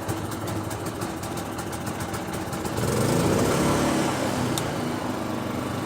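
Predator 3500-watt inverter generator running steadily at light load, with a low rumble that swells louder for about two seconds midway.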